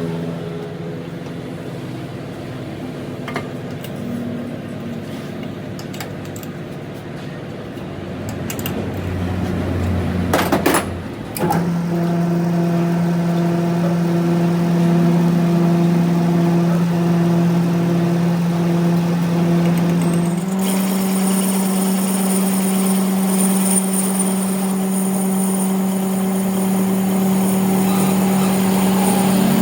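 A machine running with a steady hum, a clatter about eleven seconds in, then a strong steady drone that steps up to a higher pitch about twenty seconds in.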